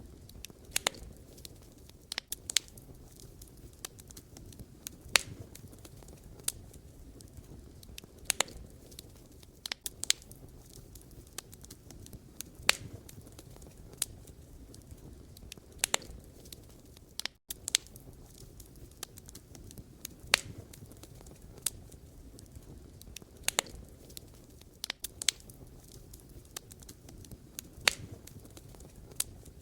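Campfire of burning firewood crackling: sharp, irregular pops and snaps over a low, steady rumble of the flames.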